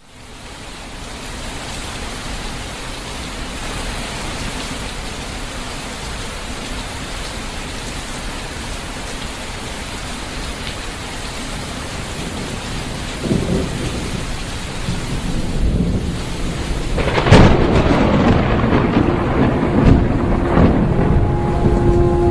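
Steady rain fading in, then thunder: a rumble about thirteen seconds in and a louder, sharper clap about seventeen seconds in that keeps rumbling.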